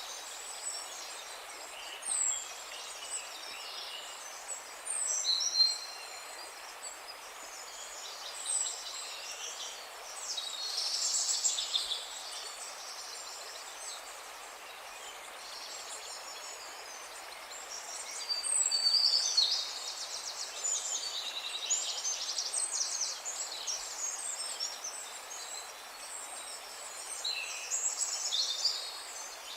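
Wild birds calling and singing over a steady background hiss: short high call notes repeat every few seconds at first, then busier bursts of chirping song come twice in the middle and again near the end.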